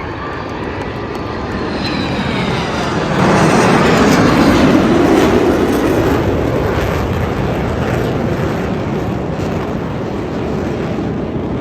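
Blue Angels F/A-18 Super Hornet jet engines roaring past overhead. The roar swells sharply about three seconds in, is loudest for a few seconds, then eases off but keeps going.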